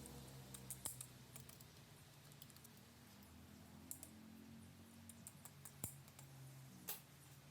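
Faint, scattered clicks and light taps of small metal parts being handled during an automatic transmission rebuild, over a low steady hum.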